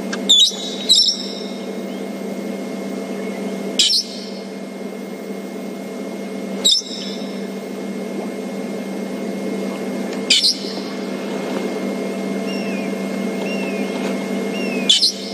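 Brown-headed parrot giving its shrieking call: six short, shrill, loud shrieks at irregular intervals, two close together at the start and then one every few seconds.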